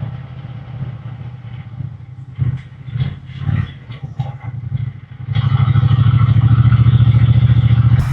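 Triumph Bonneville T120 parallel-twin engine running quietly with a few irregular knocks and clatters. About five seconds in it turns into a much louder, steady exhaust rumble.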